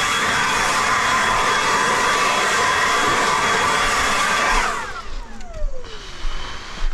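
A high-speed fan motor, such as a blower or vacuum, runs steadily with a loud whine. About four and a half seconds in it is switched off and winds down, its whine falling in pitch.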